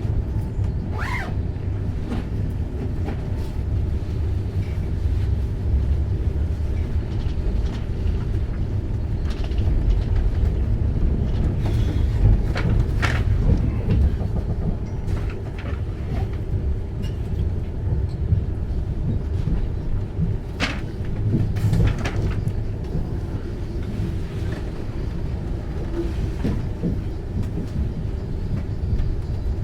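Enterprise passenger train running along the line: a steady low rumble of wheels on rail, with a few sharp clicks and knocks now and then.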